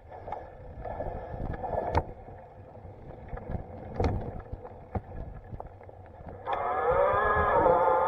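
Bicycle riding over a rough trail: a steady rumble with knocks and rattles from bumps, then a loud wavering squeal lasting about a second and a half near the end.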